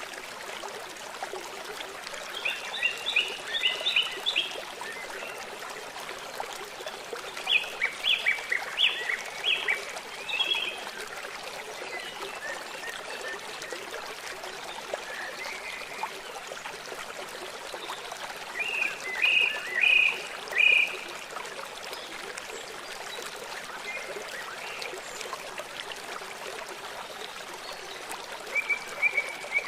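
River water flowing steadily, with songbirds breaking in four times in quick runs of short, high chirps.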